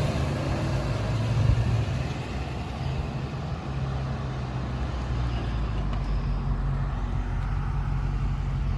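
Compost collection truck's engine running with a steady low drone. A broader, higher noise over it eases off after about two seconds.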